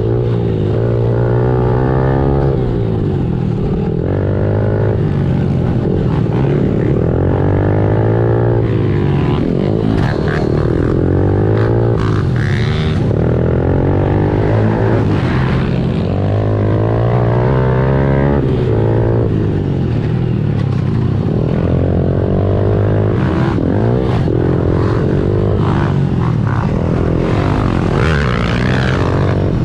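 Honda CRF110 pit bike's small air-cooled four-stroke single revving up and backing off again and again while riding laps, its pitch rising and falling every two to three seconds.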